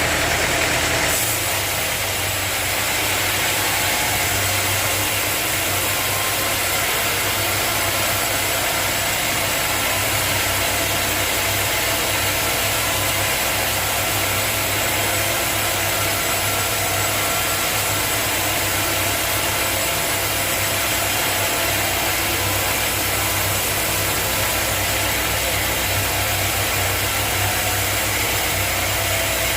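Sawmill machinery running steadily, a continuous low motor hum under a broad hiss; a higher hiss drops away about a second in.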